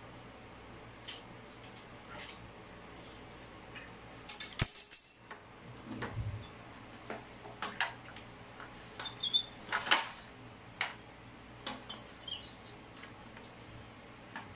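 Scattered clicks and metallic clinks of plumbing tools and fittings being handled, busiest in the middle, with one brief ringing clink a little over four seconds in and a dull knock soon after.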